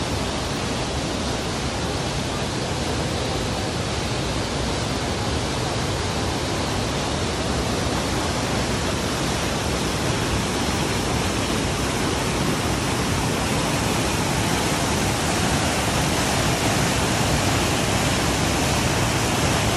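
Waterfall's falling water rushing steadily, an even dense hiss that grows slightly louder near the end.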